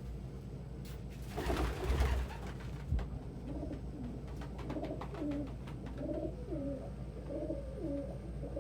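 A domestic pigeon cooing over and over in a loft, with a short noisy flurry and a couple of thumps before the cooing starts.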